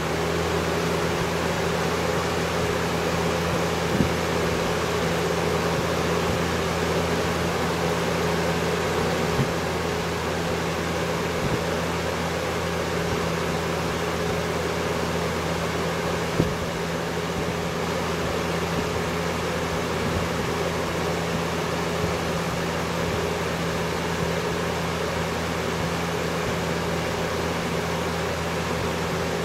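1994-95 Air King 20-inch box fan (model 9733) running steadily: an even rush of air over a low motor hum, with a few faint clicks.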